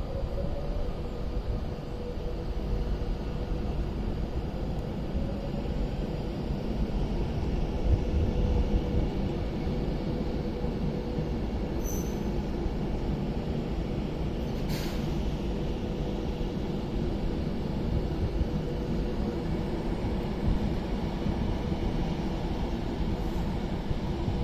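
Class 390 Pendolino electric train pulling out of the station with a steady low rumble of wheels on rail. A faint whine shows in the first few seconds, and there are two brief sharp sounds about twelve and fifteen seconds in.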